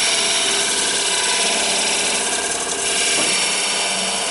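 Wood lathe running while a scraping tool is held gently against the spinning egg-cup blank, making a steady scraping hiss to smooth the surface. The high part of the hiss thins out about three seconds in.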